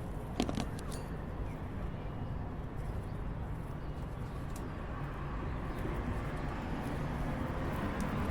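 Steady low background rumble with a few light clicks and taps from cockatiels moving about: one about half a second in, another near one second, and one near the end.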